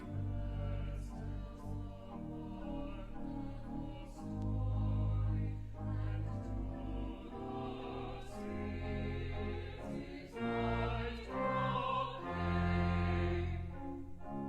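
Classical sacred music: a voice singing long, wavering notes over sustained low accompaniment.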